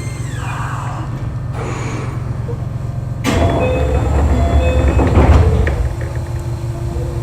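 Keio 8000 series train coming to a stop: the falling whine of its drive dies away at the start over a steady rumble. About three seconds in there is a sudden hiss and rumble as the doors slide open, lasting a couple of seconds.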